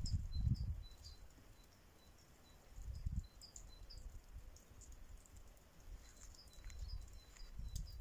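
Small birds chirping in short, high notes repeated over and over, with low rumbling bursts at the start, about three seconds in, and near the end.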